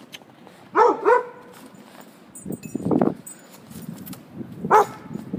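Dog barking: two short barks in quick succession about a second in and one more near the end, with a rougher noisy sound between them around three seconds in.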